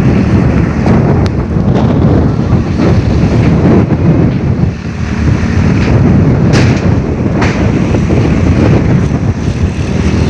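Strong storm wind blowing hard across the microphone as a loud, continuous buffeting noise. A few short sharp knocks or clatters cut through it.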